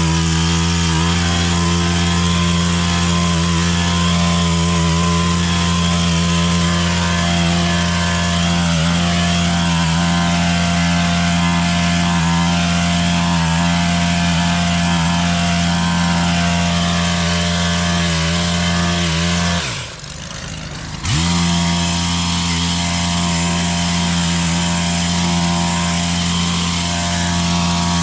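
Stihl KM 130R KombiEngine's small two-stroke engine held at high throttle with a steady high pitch. About twenty seconds in, the throttle is released for roughly a second and the engine drops toward idle, then revs straight back up and runs on steadily.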